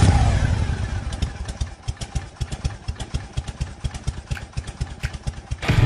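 Motorcycle engine revving briefly, then dropping back to a slow, even idle, its exhaust beats steady and quieter as it settles.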